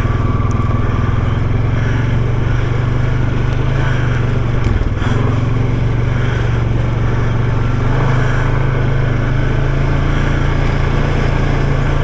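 Off-road vehicle engine running steadily at low trail speed, with a short dip about five seconds in and a slight rise in pitch near eight seconds.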